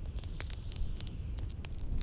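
Wood fire crackling, with sharp irregular pops several times a second over a steady low rumble of blizzard wind.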